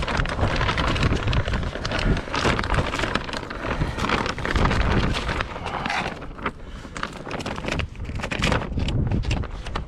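Strong gusty wind buffeting the microphone, with the plastic vapour-barrier sheeting flapping and crackling irregularly in it.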